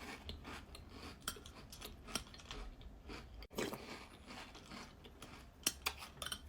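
Faint, scattered clicks and crunches of dry Golden Nuggets cereal.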